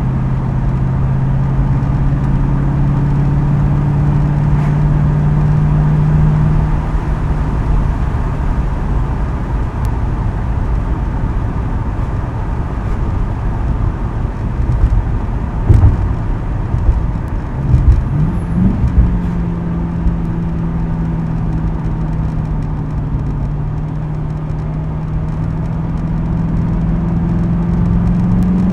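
2010 Ford Crown Victoria Police Interceptor's 4.6-litre V8 on its new quad-tip exhaust, driving. A steady engine drone fades about seven seconds in, a few loud thumps come around the middle, then the drone returns and rises slowly in pitch as the car picks up speed.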